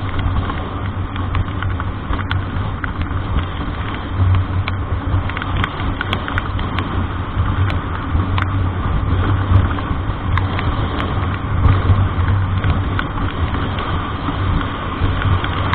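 Vehicle engine and road noise heard from inside while driving: a steady low drone with an even hiss above it and scattered light ticks.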